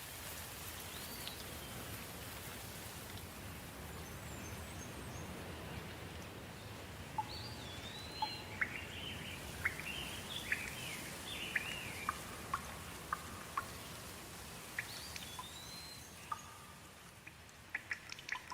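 Steady soft rain with birds calling over it: a few whistled calls that rise and fall, and a run of short chirps in the middle. Sharp drips ticking near the end.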